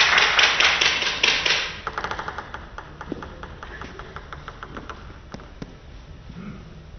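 Spectators clapping in a steady rhythm, loud for the first two seconds, then dying away into scattered light claps and taps.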